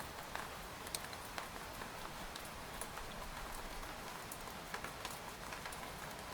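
Steady rain falling on a tent: an even hiss with scattered, irregular taps of single drops hitting the fabric.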